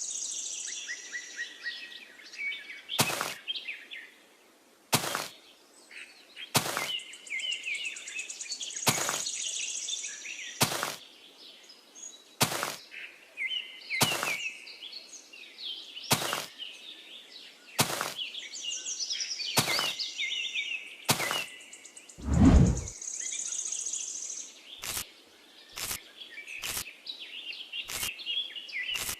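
Birds chirping and singing steadily, with sharp taps or clicks every second or two and one deeper thump about 22 seconds in.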